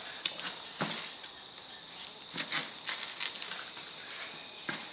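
A motorcycle tyre being worked off its spoked wheel rim by hand and with tyre levers: a few scattered knocks and scrapes of rubber and metal. A steady high-pitched tone runs underneath.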